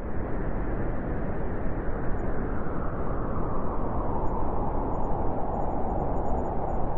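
Blizzard wind blowing hard, a steady deep rushing noise that grows stronger from about halfway through.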